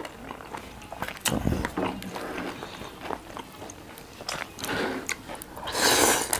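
Close-miked chewing of momo dumplings: wet mouth clicks and smacks throughout. There is a louder rushing noise near the end.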